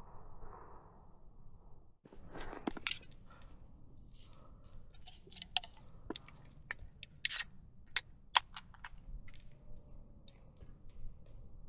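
A run of sharp, irregular clicks and clinks, a dozen or more, starting about two seconds in over a low steady hum.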